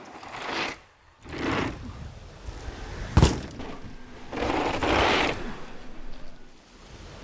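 Mountain bike riding down a dirt trail: tyres hiss and slide over the dirt in several swells, with mechanical rattling from the bike, and one hard impact about three seconds in, like a landing.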